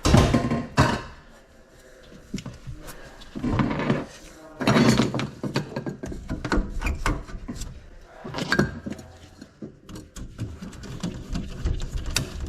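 Irregular knocks, clicks and scraping of hands working with drain pipe, fittings and tools, with a few louder clattering bursts.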